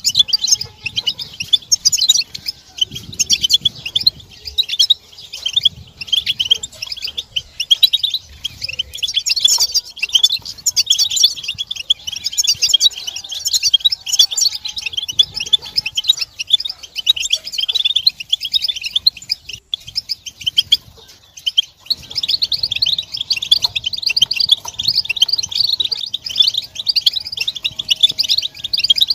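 A group of European goldfinches twittering in rapid, overlapping chirps without a break: the excited contact and mating calls used to stir male goldfinches into song.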